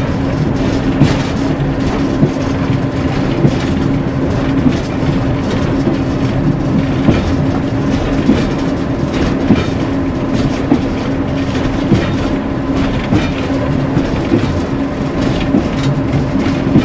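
Class 141 Pacer diesel railbus running along the line, heard from the driver's cab: a steady engine drone with a regular clack of the wheels over rail joints about every second.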